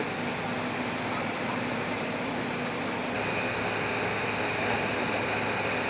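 Steady jet aircraft noise, a rushing drone with a thin high whine. About three seconds in it gets louder and a sharper, higher whine comes in.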